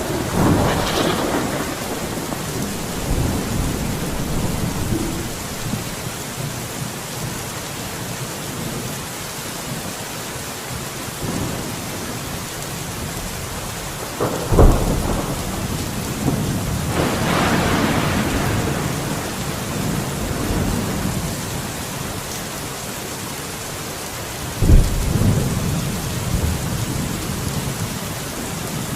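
Steady rain with thunder. A rolling rumble comes at the start, a sharp crack about halfway through is followed by a long rumble, and another crack with a rumble comes near the end.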